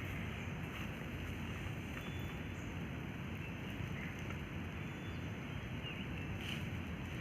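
Steady outdoor rushing noise, heaviest in the low end, with a few faint high chirps.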